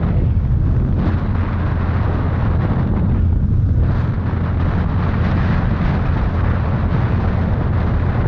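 Motorcycle running on the move, mostly buried in heavy wind buffeting on the microphone: a steady low rumble that rises and falls in gusts.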